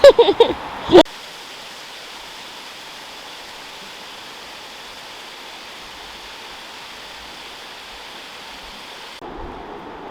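A waterfall's steady, even rush of water, after a brief loud burst of voice in the first second. Near the end the sound cuts abruptly to a duller, lower rush.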